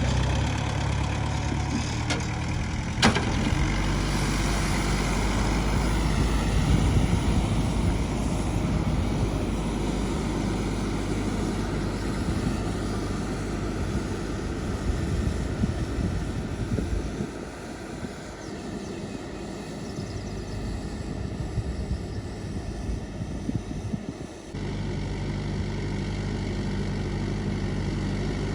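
VST mini tractor's diesel engine running steadily, with a sharp click about three seconds in. It drops quieter for several seconds, then comes back louder and steady with an abrupt change near the end.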